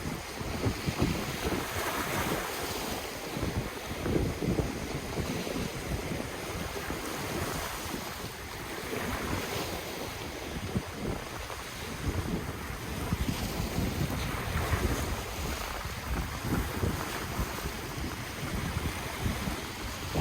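Ocean surf washing on the shore in a steady rush that swells every few seconds, with wind buffeting the microphone in low rumbles.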